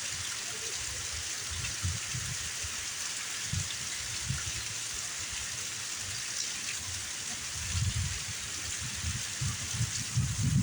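Heavy rain falling in a steady hiss, with irregular low bumps of wind on the microphone that grow stronger near the end.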